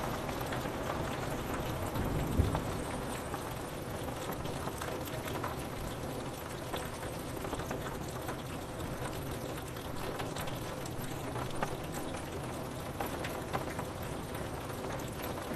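Steady rain on window glass: a continuous hiss with many fine drop ticks. A short low rumble of thunder swells about two and a half seconds in.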